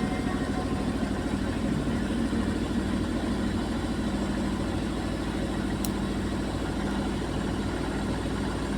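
Beko WMY81283LMB2 washing machine spinning at speed with a steady low rumble and a fast, even beat, like a helicopter. The drum is running badly unbalanced.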